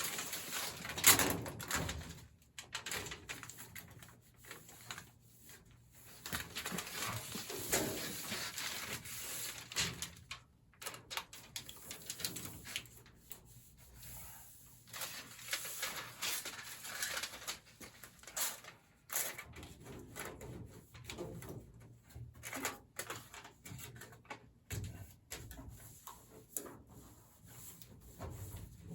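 Silver foil tape being pulled off the roll and pressed around sheet-metal duct joints: scattered crinkles, scrapes and light knocks on the ductwork.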